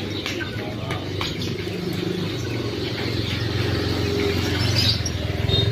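A steady low engine-like hum runs throughout, with scattered short bird chirps over it.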